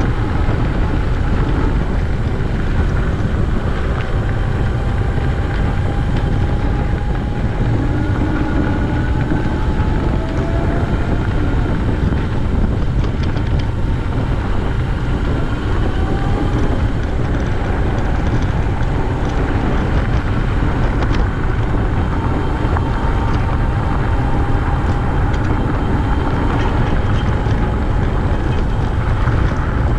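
Steady rush of wind on the microphone and rolling noise from a bicycle ride, with faint thin tones wavering in and out above it.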